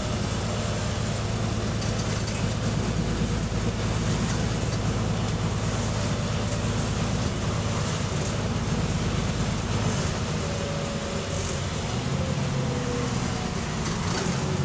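Bus engine and running noise: a steady low drone with road noise and faint whines that drift in pitch, one falling in the latter part. The bus has an exhaust leak.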